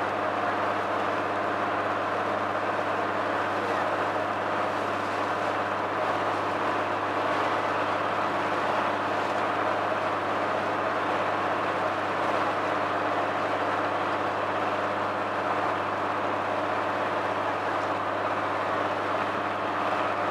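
Motor launch's engine running steadily at cruising speed, an even drone with a constant hiss of water and wind over it.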